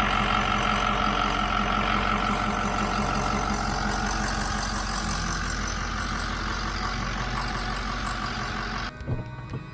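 Pickup truck engine idling steadily, its battery just reconnected after being disconnected to reset the sensors, including the tow/haul transmission sensor. It cuts off abruptly near the end.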